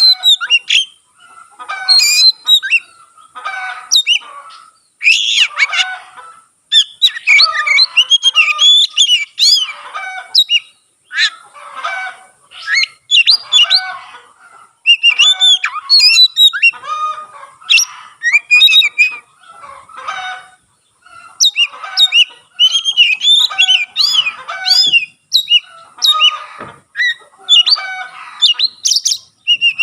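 Oriental magpie-robin (kacer) singing vigorously: a long, varied run of quick whistled phrases in bursts of a second or two, broken by brief pauses.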